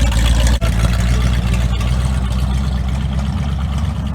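Dodge muscle car's engine running at low speed with a steady low rumble, a little quieter after about half a second.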